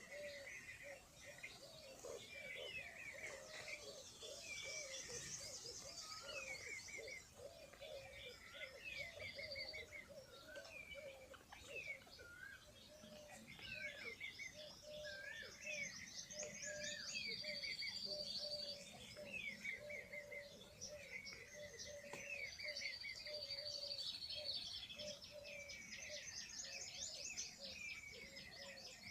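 Birdsong chorus: several birds chirping and trilling in quick, overlapping phrases, over a lower note repeated steadily about twice a second.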